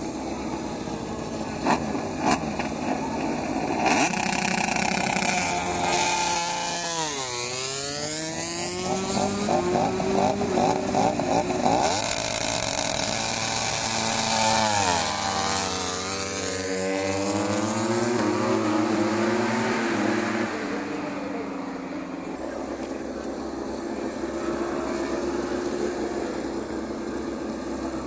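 MotoGP four-cylinder prototype race bikes revving and passing one after another as practice begins, each engine's pitch climbing and then dropping steeply as it goes by. A few sharp cracks come near the start.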